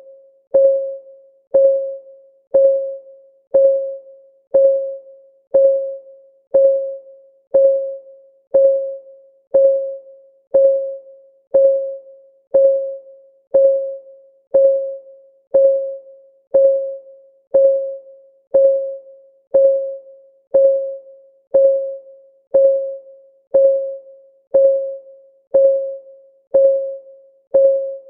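Countdown timer's clock-ticking sound: one short tick each second, each tick a single mid-pitched tone that dies away quickly, in an unbroken, even rhythm.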